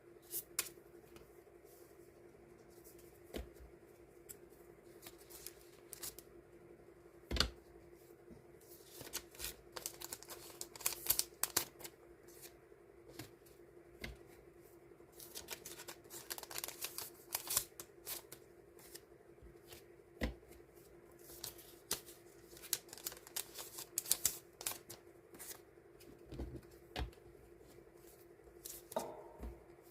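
Die-cut stickers being handled and sorted by hand: irregular papery rustling and light clicks, busier in the middle, over a steady low hum.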